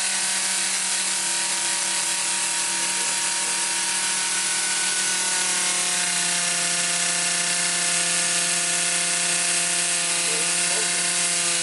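LEGO Technic piston engine spun at high speed by a 24 V drill motor, running steadily with a constant whine over a dense plastic hiss. The pitch shifts slightly about halfway through.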